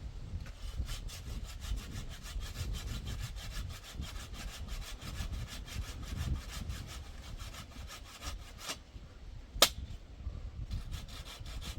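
Hand saw cutting through wood in quick, even back-and-forth strokes, with a single sharp knock about two-thirds of the way in, the loudest sound here, before the sawing picks up again.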